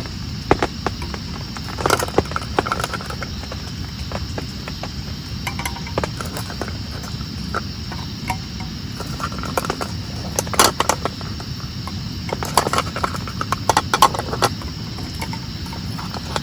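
Steady heavy rain falling, with an irregular run of sharp clicks and knocks over it, thickest about two seconds in and again around the last third.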